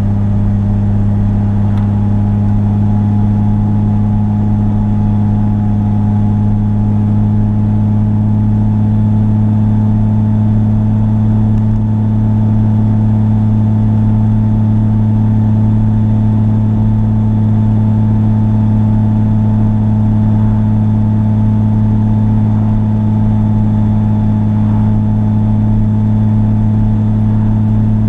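A car's engine and road noise heard from on board while cruising at a steady speed: a constant low drone that holds one pitch without revving up or down.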